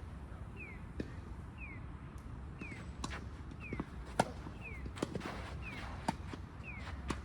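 Sharp knocks of tennis balls being struck and bouncing at irregular intervals, the loudest about four seconds in. A short falling chirp repeats evenly about once a second.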